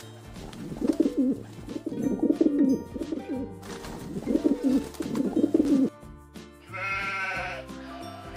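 Rock pigeons cooing in four rolling, wavering phrases, followed about seven seconds in by a single sheep bleat, over background music.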